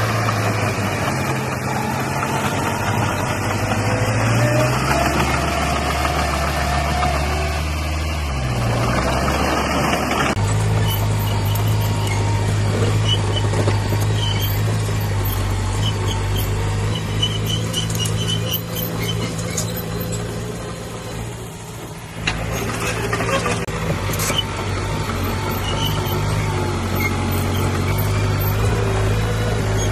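Heavy diesel earthmoving machinery running and working under changing load, its engine note shifting in pitch, with abrupt changes about ten and twenty-two seconds in. Short high squeaks come in the middle stretch.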